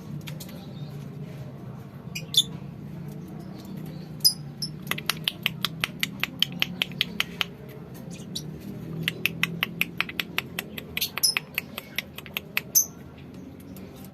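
Lovebirds calling: a few short, sharp chirps and two long runs of rapid clicking chatter, about eight clicks a second, over a steady low hum.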